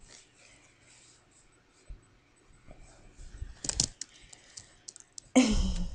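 Computer keyboard keys clicking unevenly as a sugar glider walks across the keyboard, with a cluster of sharper clicks a little before four seconds in. A short, louder voice sound comes near the end.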